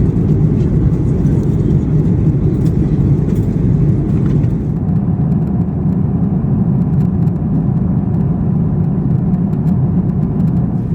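Steady low rumble of airflow and engine noise inside the cabin of a four-engined Lufthansa Airbus A340-600 in flight.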